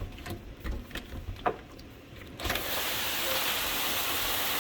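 Hail coming down: a few scattered knocks at first, then about halfway through a sudden loud, steady hiss of hailstones pelting down that holds to the end.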